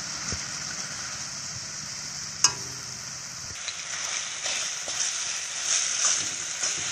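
Noodles sizzling in tomato sauce in a pan as they are stirred with a spatula, with a steady frying hiss. One sharp clink of the utensil against the pan about two and a half seconds in, then a run of scraping strokes as the stirring picks up.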